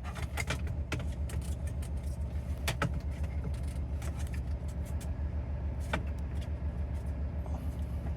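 2009 BMW 320d's four-cylinder diesel engine idling roughly, a steady low pulsing rumble with scattered sharp clicks and knocks over it. The engine is misfiring and down on power, a fault tied to the cylinder 3 injector (fault code 443C).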